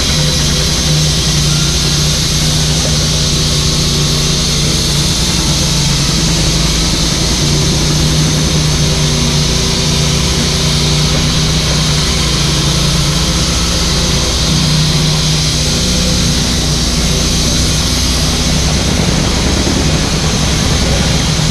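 Mini excavator's diesel engine running steadily under work, with a steady high hiss over the engine note.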